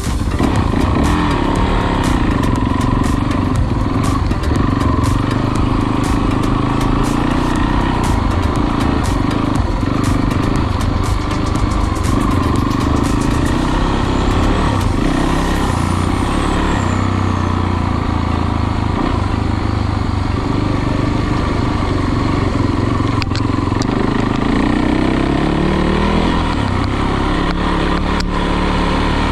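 Dirt bike engine running steadily, with many sharp ticks in the first half and its pitch climbing about 25 seconds in as the engine speeds up.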